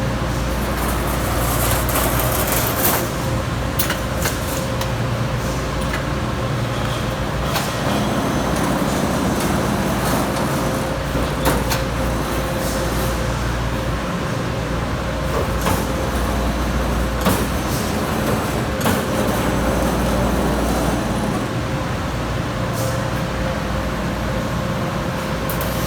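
Amada Pega 357 CNC turret punch running, with a steady motor hum and constant whine, and sharp clicks and knocks at irregular intervals.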